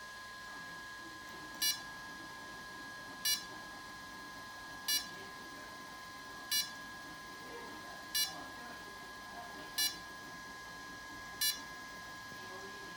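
DJI Phantom 4 Pro drone beeping: a short, sharp beep repeating evenly about every 1.6 seconds over a faint steady high whine, as the drone fails to start.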